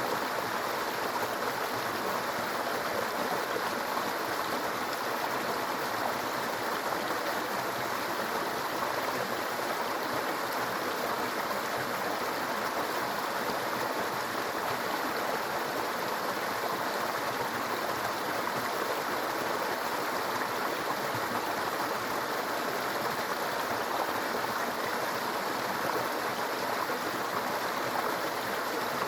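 Small brook babbling steadily over stones, an even rushing and gurgling of flowing water.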